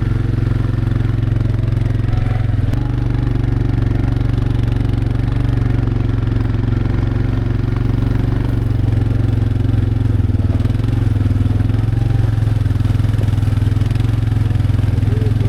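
A vehicle's engine running steadily, heard from on board as it drives, with a slight change in engine speed about three seconds in.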